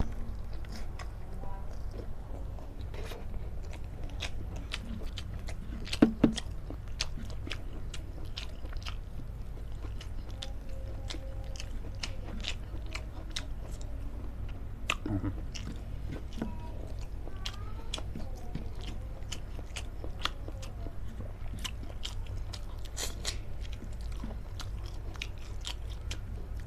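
Close-miked mouth sounds of someone chewing and biting a spicy long-bean and sambal terasi meal: a steady run of small crunchy, wet clicks, with two louder clicks about six and fifteen seconds in. A steady low hum lies underneath.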